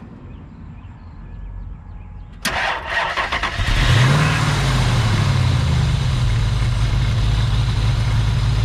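A 5.7 Hemi V8 is cranked by the starter about two and a half seconds in, catches after about a second, revs briefly and settles into a steady idle.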